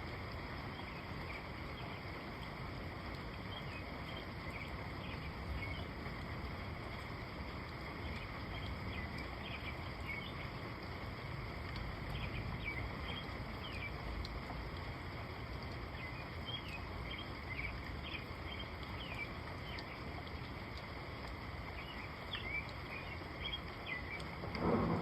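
Outdoor nature ambience: a steady low rushing noise with short high-pitched chirps scattered throughout. Thunder breaks in loudly right at the very end.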